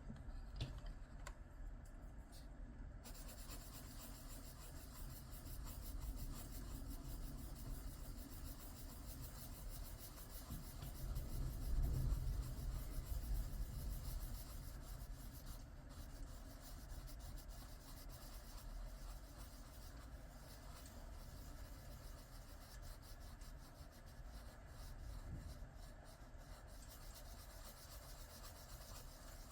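Coloured pencil rubbing back and forth on paper, a soft continuous scratching of colouring strokes that grows louder for a few seconds around the middle.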